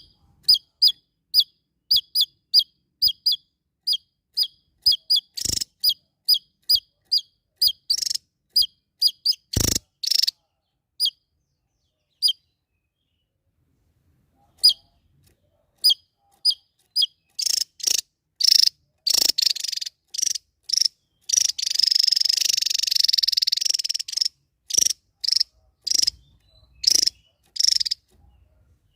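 Small songbird calling with short, sharp, high chirps repeated about two to three a second; the chirps stop for a couple of seconds, then return faster and run into a continuous rapid trill before breaking back into single chirps.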